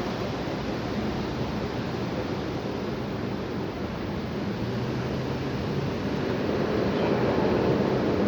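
High wind blowing hard, a steady rushing noise that grows louder near the end.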